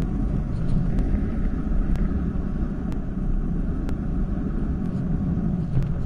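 Steady low rumble of wind and road noise from a bicycle ride, with faint light ticks about once a second.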